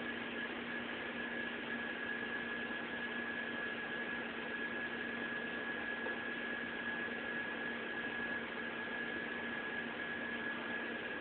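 Audi A6 4.2 V8 idling after a cold start, with a steady high-pitched whine over the engine noise. The whine only lasts until the engine warms up, and the owner is not sure whether it is normal or a sign of something wrong with the engine.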